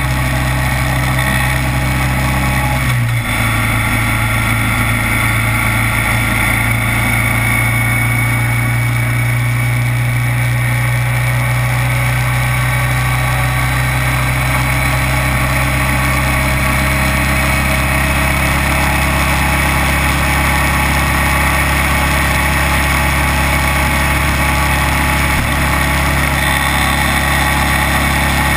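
Kawasaki Vulcan 900's V-twin engine running at a steady note, with a constant rush of noise over it. About three seconds in there is a brief break, after which the engine note steps up slightly and holds.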